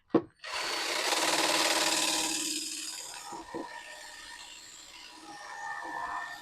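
Strip wheel on a power tool abrading undercoating off a steel muffler: a click, then a loud rasping grind that eases after about three seconds into lighter grinding with a faint steady whine.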